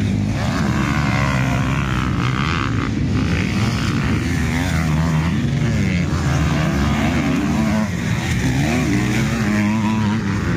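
Several motocross bikes' engines revving hard, their pitch rising and falling over and over with throttle and gear changes as they ride the track.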